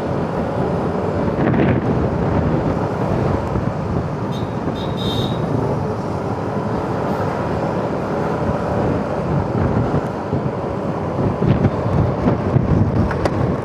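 Motorcycle riding at road speed: engine running steadily under a rush of wind over the microphone and tyre and road noise, with a brief high chirp about five seconds in.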